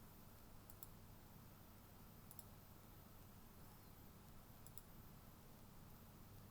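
Faint computer mouse clicks: three quick double-clicks about a second and a half apart, over near-silent room tone with a low hum.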